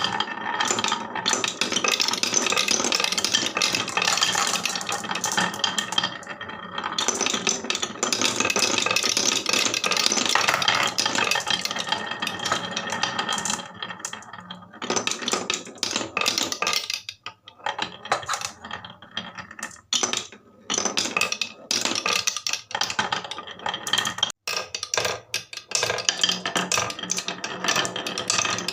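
Marbles rolling and clattering down a HABA wooden marble run: a dense, continuous rattle for the first half that thins out into scattered clicks and knocks as fewer marbles are left running.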